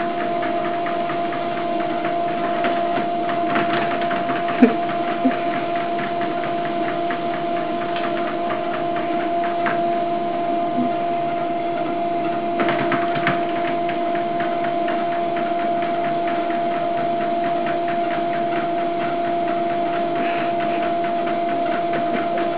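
Steady mechanical hum with a held low tone and its octave over a motor-like whir, with a few faint knocks about five seconds in.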